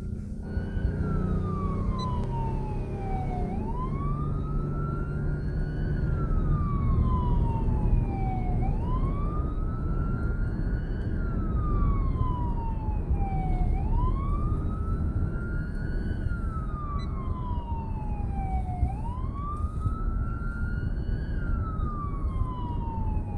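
Ambulance siren on a slow wail, its pitch rising and falling in long sweeps about every five seconds, over the steady rumble of the vehicle's engine and road noise.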